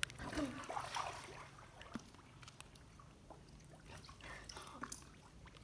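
Faint water lapping and trickling in a well as swimmers go under, with a few faint, distant voices.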